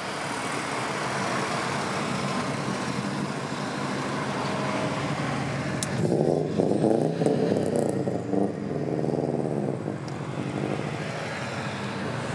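Subaru cars driving past one after another with engines running. About six seconds in, one accelerates hard, its engine revving up and down in the loudest part, then the note settles back to a steadier run.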